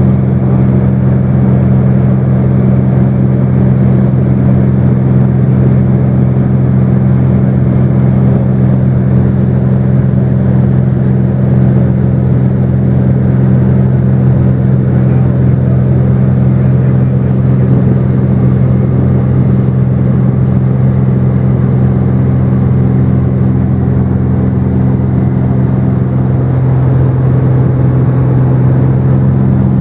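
Cessna 210's piston engine and propeller droning steadily at a constant pitch.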